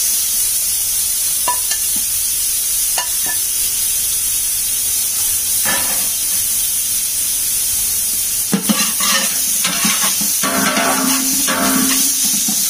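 Steady sizzling of onion and pineapple frying in hot vanaspati with whole spices in a large pot, with a few light clicks.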